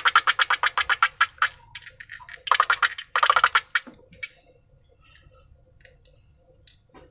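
Slime being squeezed and worked by hand, a fast run of sticky clicks and pops, about ten a second. A second dense burst comes about two and a half seconds in, then it fades to a few faint scattered clicks.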